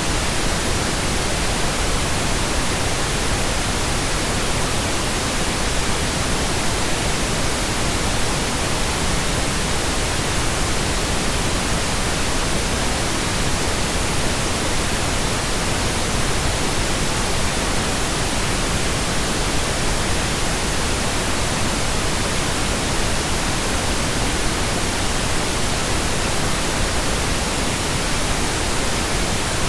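Steady, unbroken pink noise, synthetically generated: an even hiss spread across the whole frequency range with no changes or events.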